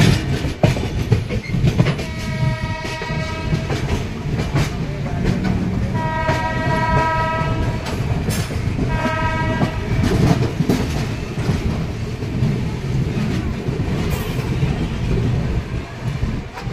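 Moving passenger train heard from aboard: a steady rumble of wheels on rails with scattered rail-joint clicks, while a train horn sounds three times, each blast about a second or so long.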